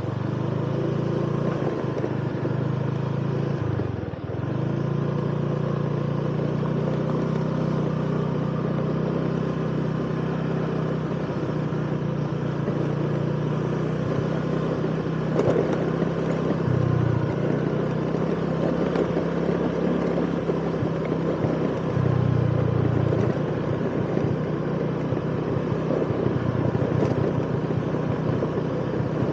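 Motorcycle engine running steadily while riding over a rough road, with road and wind noise. The engine note dips and picks up again a few times, as with throttle or gear changes.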